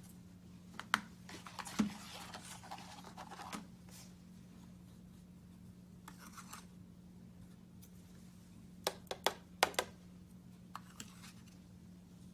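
Copper embossing powder and cardstock being handled on a craft desk: a soft hissing rustle about two seconds in as the powder goes over the stamped leaves, scattered small clicks, and a quick cluster of sharp taps around nine to ten seconds as the excess is knocked off. A faint steady hum lies underneath.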